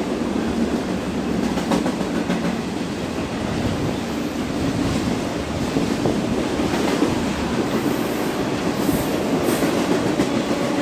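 A train rolling past on the rails, its wheels making a steady rumble with some clickety-clack.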